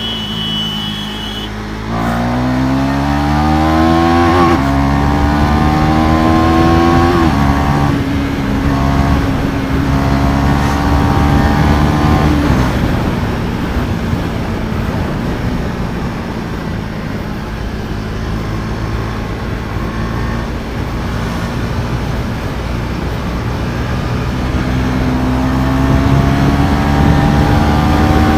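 KTM Duke 390's single-cylinder engine at full-throttle acceleration, its pitch climbing sharply through the gears with two quick upshifts in the first several seconds, then holding steady at speed under loud wind rush. Near the end the engine pitch climbs again.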